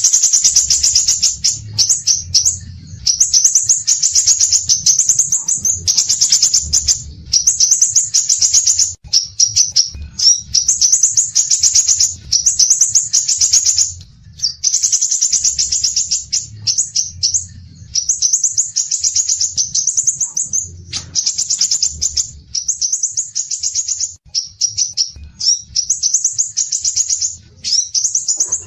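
A songbird singing a rapid, high-pitched chattering song in phrases of about a second each, one after another with only short breaks.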